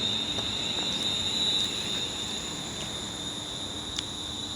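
Class 350 Desiro electric multiple unit standing at the platform: a steady high-pitched whine with a faint low hum under it, and a small click about four seconds in.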